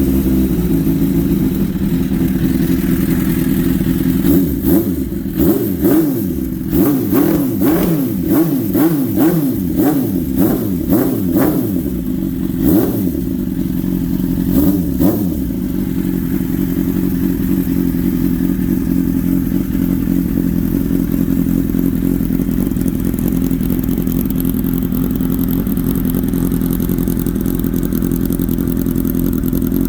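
1992 Suzuki GSX-R750 inline-four engine running, blipped up and down about a dozen times in quick succession in the first half, then settling to a steady idle.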